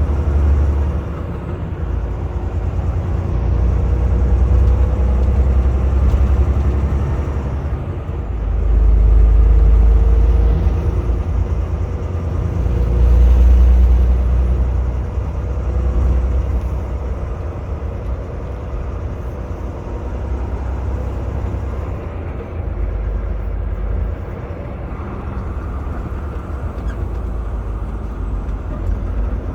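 Semi truck's diesel engine and road noise heard inside the cab: a low rumble that swells and eases several times, loudest around ten and fourteen seconds in.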